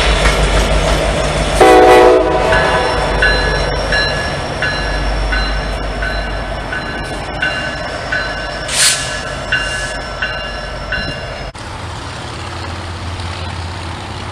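A Norfolk Southern freight train rumbling past, with a short horn blast about two seconds in. A bell then dings steadily about one and a half times a second and stops about eleven seconds in, and the train's rumble falls away.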